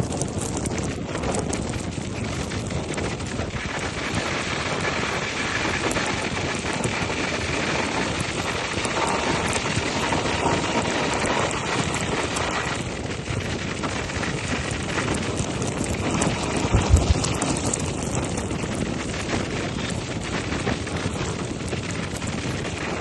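Riding motorcycle: wind rushing over the microphone, with engine and road noise underneath. A brief low thump comes about three-quarters of the way through.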